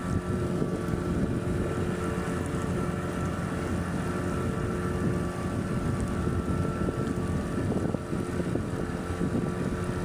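Motorboat engine running steadily while the boat cruises, with wind buffeting the microphone.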